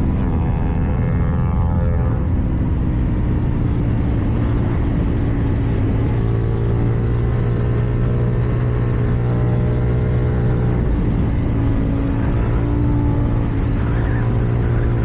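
KTM 790 Duke's parallel-twin engine through an Akrapovič exhaust, running under way at fairly steady revs, its pitch shifting slightly as the throttle changes.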